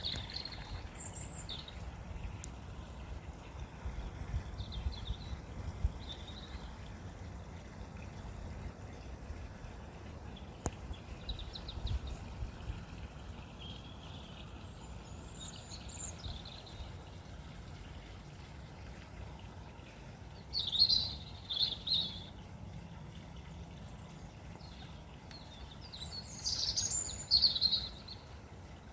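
Garden birds chirping and calling in short scattered phrases, loudest about two-thirds of the way through and again near the end, over a low steady rumble.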